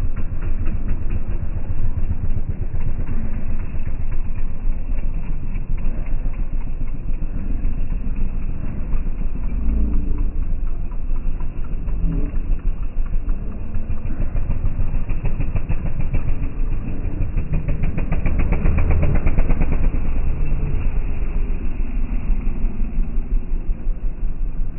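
Engine of an off-road motorbike or quad running steadily under way, getting louder for a couple of seconds about two thirds of the way through.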